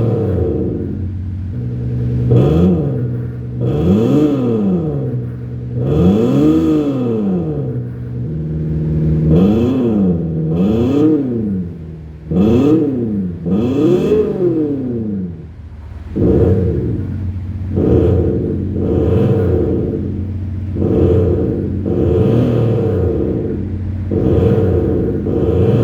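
BMW X6 30d inline-six diesel heard through a JSR Just Sound Booster active exhaust sound generator, revved in a series of throttle blips: the note rises and falls in quick arcs every one to two seconds over a steady hum. In the last third the blips come shorter and choppier.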